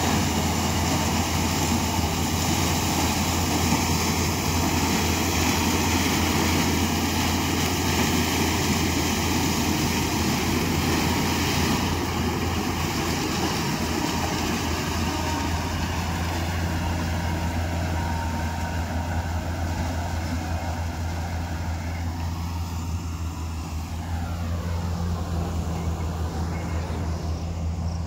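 Combine harvester running steadily while harvesting maize: a low, even engine hum under dense mechanical noise, easing a little near the end.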